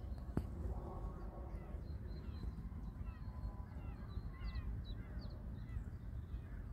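Birds calling, many short downward-sliding calls close together, over a steady low rumble. A single sharp click about half a second in.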